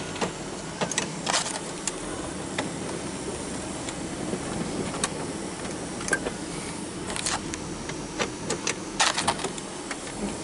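Small tractor engine running steadily while plowing snow, with scattered clicks and rattles over it.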